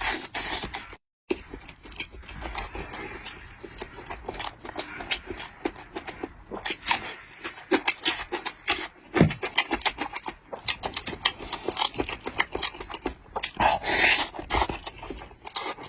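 A person eating clay-pot rice up close: continuous chewing and mouth noises made of many short, quick clicks, with a brief cut-out about a second in.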